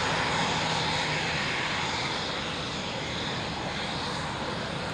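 Fixed-wing aircraft taking off under full power, a steady engine roar that eases slightly as it climbs away.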